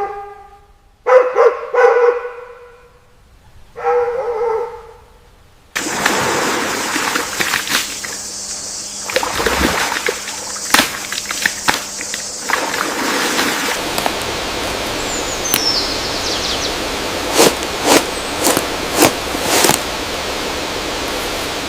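A dog-like animal barks or yelps four times in the first few seconds. About six seconds in the sound cuts abruptly to a steady hiss of ambience, with scattered sharp clicks and a brief high gliding call.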